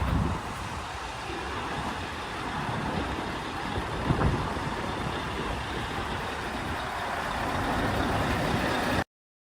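Scania truck's diesel engine running steadily, with two brief low surges, one at the start and one about four seconds in; the sound cuts off suddenly about nine seconds in.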